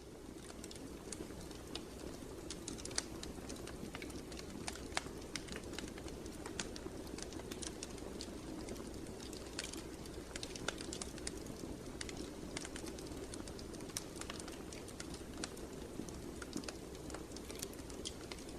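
Fire crackling in a fireplace: frequent irregular sharp pops and snaps over a steady low rush of burning.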